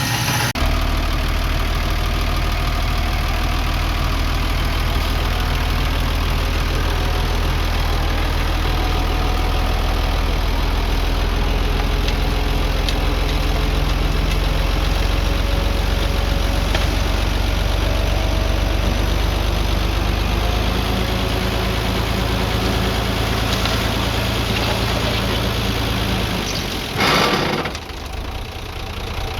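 Diesel engine of an earthmoving machine running steadily, its note shifting about half a second in and again about twenty seconds in. A brief loud rush of noise comes near the end.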